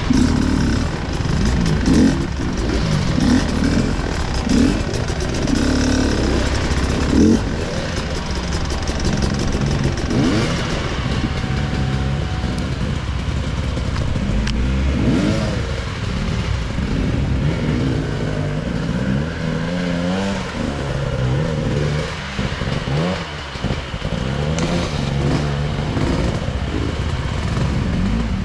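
Off-road enduro motorcycle engine revving up and down in repeated short bursts, its pitch rising and falling every second or two as the throttle is worked. About two thirds of the way through there is a brief dip where the engine drops back.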